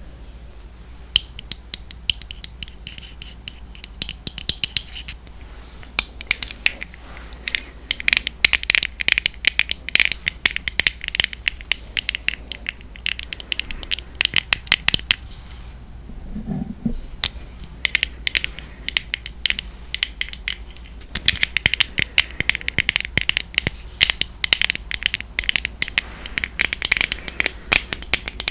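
Fingernails tapping and scratching on a Laura Mercier setting powder container: fast, dense clicking in runs of several seconds, with short pauses between them.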